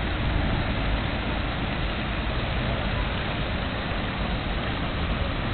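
Early vintage cars running slowly past in a line: a steady mix of old engines with a low rumble and no single engine standing out.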